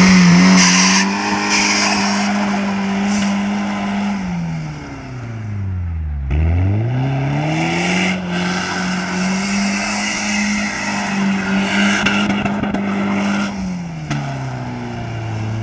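BMW E36 3 Series engine held at high, steady revs while the rear wheels spin on grass and dirt. The revs fall away to near idle about four seconds in, climb straight back and hold, then drop again near the end.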